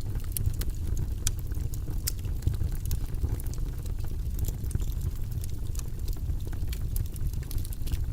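Wood fire crackling in a fireplace, with sharp irregular pops and snaps over a steady low rumble.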